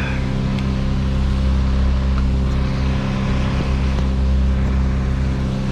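A large engine running steadily at one constant speed, a low even hum with no revving.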